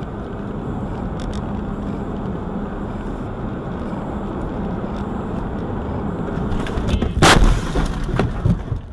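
Steady road and engine noise from a moving car, then a loud bang about seven seconds in, followed by a few smaller knocks.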